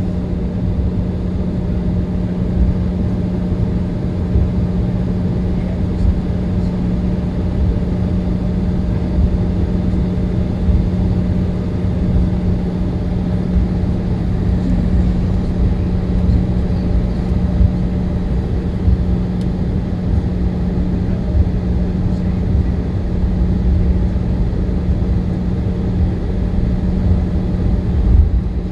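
Airliner cabin noise: a steady low rumble with a constant hum, no change in pitch or level.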